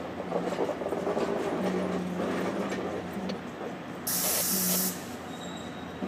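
Caltrain bilevel passenger cars rolling slowly into the station, with a steady rumble of wheels on the rails. About four seconds in comes a loud burst of air hiss from the train's air brakes, lasting about a second.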